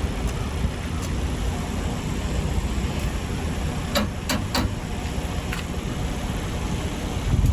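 A vehicle engine running steadily with a low rumble, with three sharp clicks in quick succession about four seconds in and another a second later.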